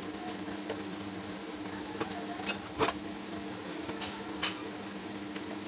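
A few sharp metallic clinks, two close together midway and one more later, over a steady mechanical hum.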